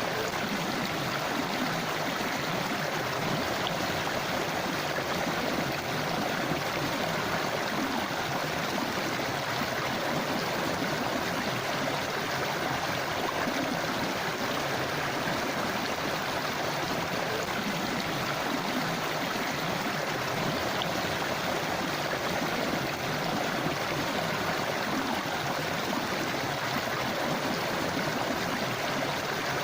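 A forest river or stream flowing steadily over rocks, a continuous rushing and babbling of water.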